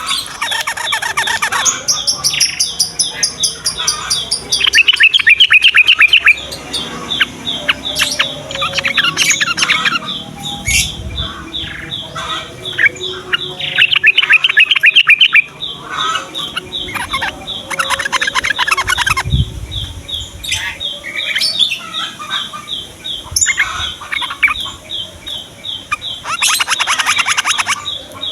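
Yellow-vented bulbuls singing: loud bursts of rapid, bubbly chattering phrases, three or four times, over a steady quick run of high repeated chirps.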